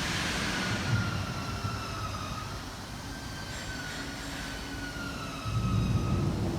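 Freight train passing through a station: a steady rumble of wheels on the rails with a high whine that drifts slowly in pitch. The rumble gets louder again near the end.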